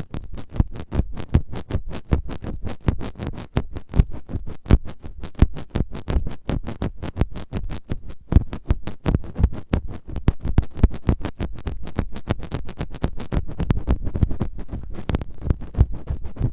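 Close-miked ASMR scratching and tapping right at the microphone: a dense, uneven run of short scratches several times a second, with a heavy, bassy body.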